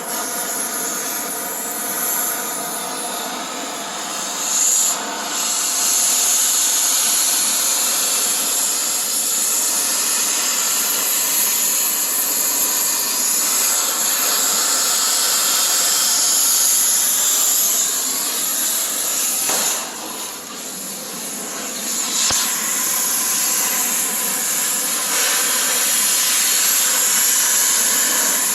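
Cutting torch hissing steadily as it cuts out seized truck-bed bolts, with a brief dip about twenty seconds in.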